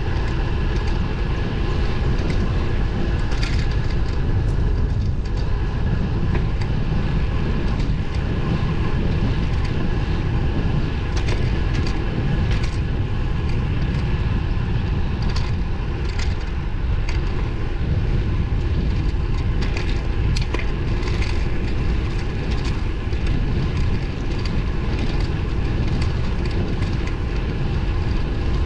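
Steady rumble of wind and road noise from a moving road bike on narrow tyres, with scattered light ticks.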